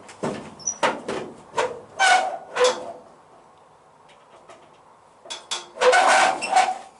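Metal knocking and clanking in a car-body workshop: a run of sharp knocks, several with a brief metallic ring, then a pause and a louder cluster of clanks about six seconds in.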